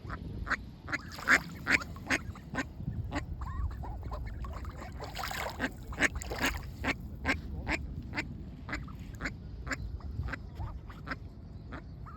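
Ducks quacking over and over, short calls at about two a second, several birds at once in places.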